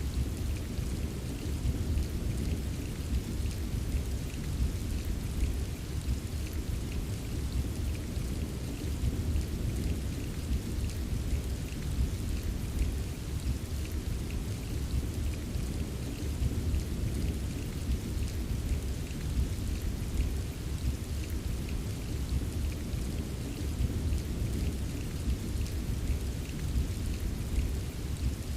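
Steady rain with a dense patter of drops, over a continuous low rumble.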